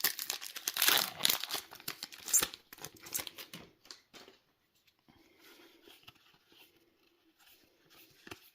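Foil trading card booster pack wrapper crinkling and tearing open with loud, crackly rustling. About four seconds in it gives way to faint, soft rustles of cards being handled.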